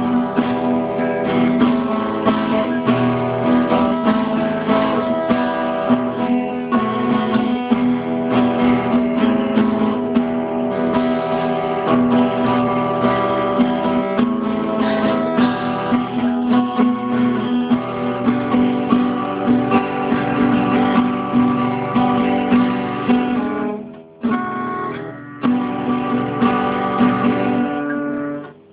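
Acoustic guitar strummed in a steady rhythm, recorded through a mobile phone so it sounds muffled. The strumming drops out briefly twice near the end.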